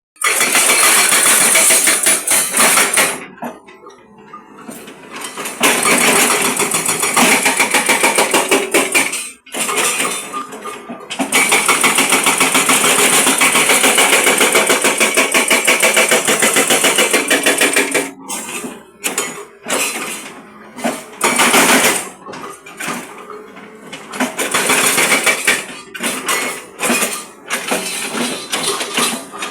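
Hydraulic breaker on a Hyundai Robex 215 excavator hammering concrete in rapid, even strikes. It runs in several long bursts with short pauses between them, then in shorter, broken bursts near the end.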